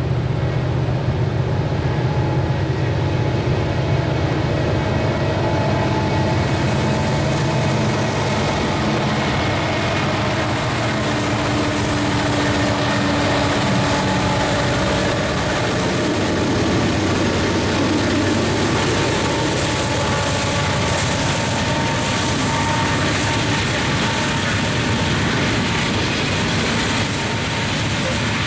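Diesel freight locomotives run past under power with a steady low engine drone. From about halfway through, loaded coal hopper cars roll by with a rumble of wheels on rail.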